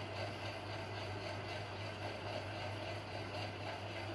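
Chopped onions sizzling steadily in hot oil in an iron kadhai, with a steady low hum underneath.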